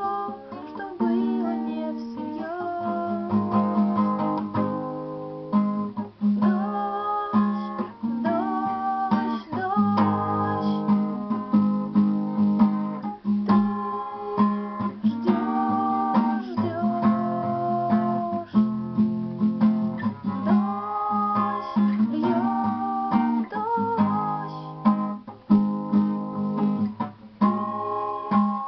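Acoustic guitar strummed with a voice singing the melody over it, a home performance of a pop-rock song.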